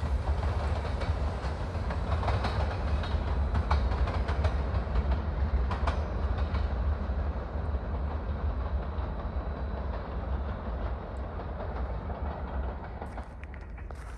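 Freight train cars rolling past on the rails: a steady heavy rumble with wheel clicks, growing quieter over the last few seconds.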